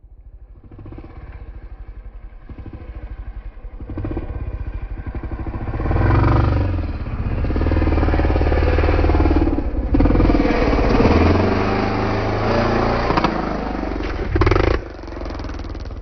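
Dirt bike engine getting louder as it approaches, then running hard with the revs rising and falling. Near the end there is a brief louder burst before the engine sound drops to a lower level.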